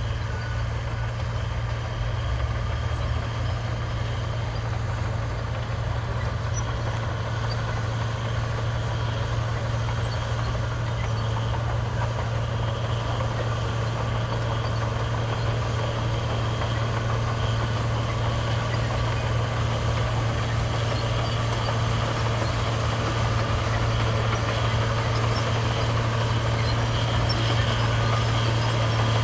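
Heavy diesel engine of a construction machine running at a steady speed, a constant low drone that grows slightly louder toward the end.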